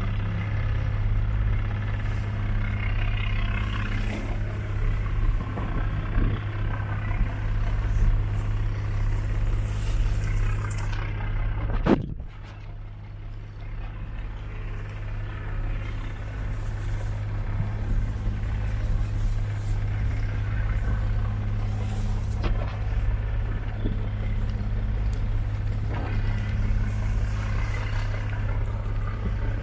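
Tour boat's engine running steadily with a deep, even hum. About twelve seconds in a sharp click comes and the sound drops, then slowly builds back to its earlier level.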